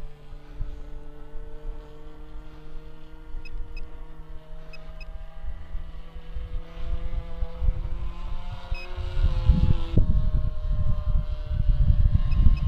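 Engine of a large-scale RC P-51D Mustang model droning in flight overhead, its pitch wandering slightly and then dropping sharply as it passes about ten seconds in. Wind buffets the microphone from about nine seconds on, the loudest sound near the end.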